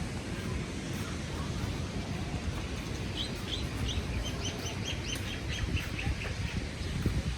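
A small bird singing a quick run of high, repeated chirps, about five a second, starting about three seconds in and lasting some three seconds, over a steady low rumble.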